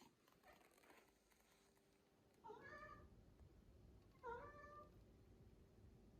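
Domestic cat meowing twice, two short meows about a second and a half apart.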